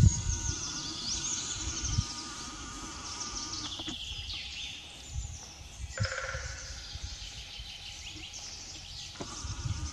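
Several birds calling and singing over one another in high, quick phrases, over a low rumble of wind on the microphone with a few soft thumps.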